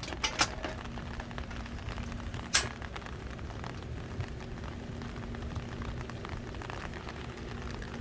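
Heavy rain falling steadily, with two sharp clicks about half a second in and a louder single click at about two and a half seconds.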